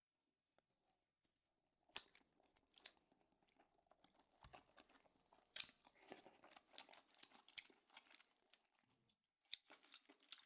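Faint close-up chewing and mouth sounds of a person eating, with scattered soft clicks and smacks and short pauses between them.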